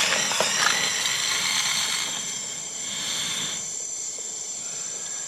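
Portable gas-canister camping stove burner hissing and rushing unevenly, a little quieter after about two seconds. It doesn't sound very good: the burner is not yet running properly.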